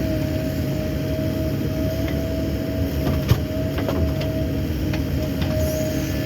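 CAT 308 mini excavator's diesel engine running steadily, with a steady whine over the low rumble. A few sharp knocks come in the middle, the loudest a little over three seconds in.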